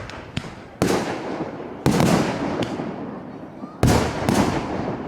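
Aerial firework shells bursting in a display: five sharp bangs, three of them big, each followed by a long crackling, rumbling tail.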